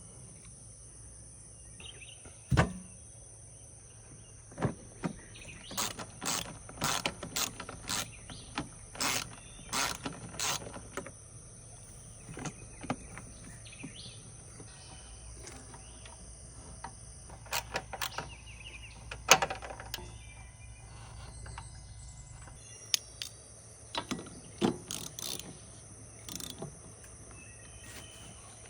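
Hand tools clicking, clinking and knocking against metal parts of a Toro TurfMaster HDX mower during a belt repair. The sounds are irregular sharp clicks in loose clusters, with a few louder knocks.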